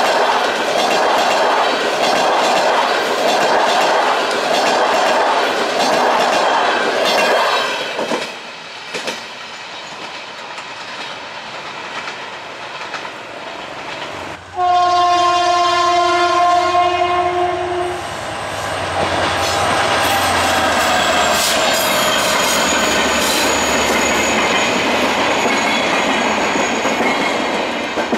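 Passenger train coaches passing at speed, their wheels clattering rhythmically over the rail joints. About halfway through, a train horn sounds one long steady blast lasting about three and a half seconds, and then another train rumbles by.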